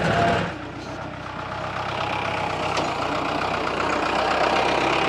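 Off-road jeep engine running steadily under load as it climbs a rough, steep track, heard from inside the vehicle; it dips briefly about a second in, then builds back up.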